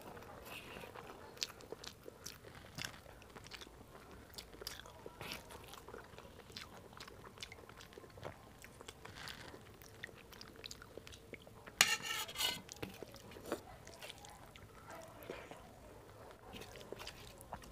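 Close-up eating sounds of rice, saag and chutney eaten by hand: chewing, wet mouth clicks and lip smacks, with the soft squish of rice being mixed by fingers on a steel plate. One louder, brief noise comes about twelve seconds in.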